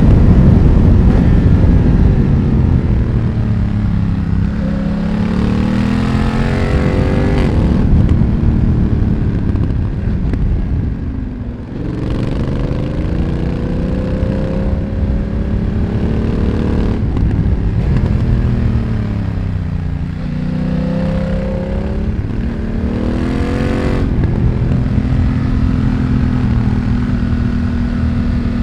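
A 2020 BMW F900R's parallel-twin engine, fitted with a Mivv X1-M exhaust, heard while riding. The engine speed falls off at first, then climbs again through several quick gear changes, drops and rises once more, and holds a steady pull near the end.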